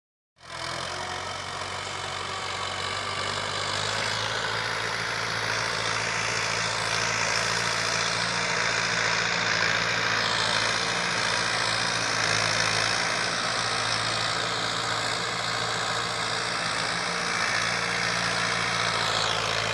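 Fiat 640 tractor's diesel engine running steadily.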